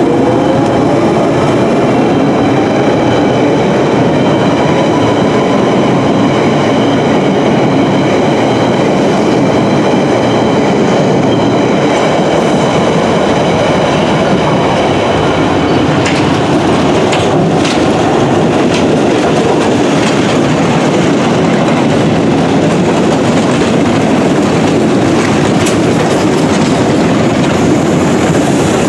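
Loud London Underground trains on the rails: a Central line 1992 Stock train pulling out, its traction motors whining up in pitch at the start, then steady rolling noise. The 1962 Stock Rail Adhesion Train runs past later, with wheels clicking over rail joints.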